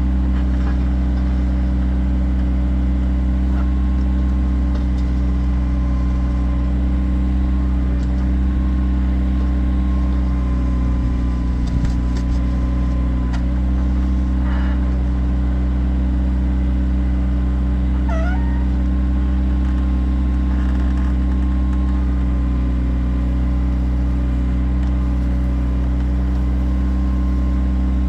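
Kioti tractor's diesel engine running steadily with a faint whine. A couple of short, high, gliding squeaks come about halfway and two-thirds of the way through.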